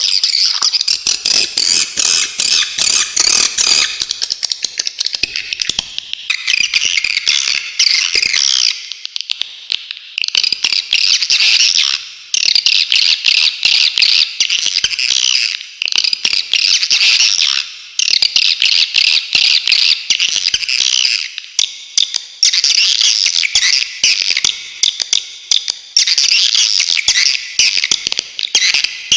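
A flock of swiftlets twittering continuously in sharp, rapid chirps and trills, with short pauses now and then. It is a swiftlet 'masteran' recording, the kind played to songbirds for them to learn.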